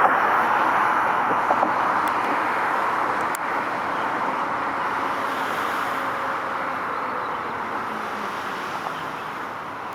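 Road traffic: the noise of a passing vehicle, loudest at first and fading steadily over several seconds, with a low background hum of traffic.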